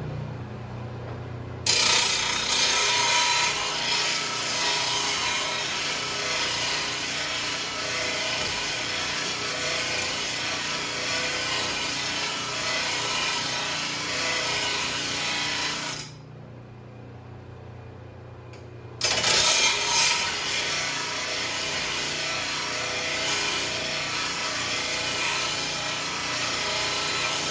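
Electric grinder sharpening steel zero-turn mower blades: a steady motor hum with two long passes of loud grinding against the blade edge, separated by a few seconds of the motor running free.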